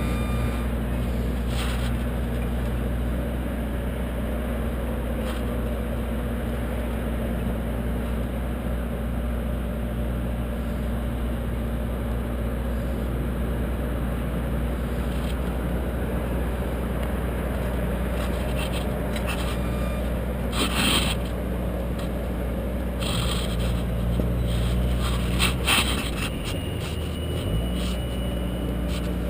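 An engine running steadily, with a few brief scrapes and knocks about two-thirds of the way through and near the end.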